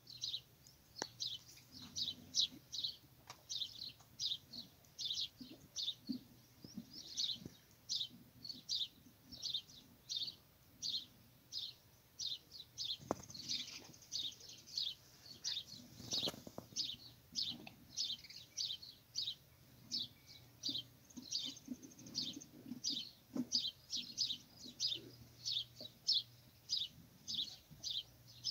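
A small bird chirping over and over, short high chirps about two a second, with a few faint knocks in the background.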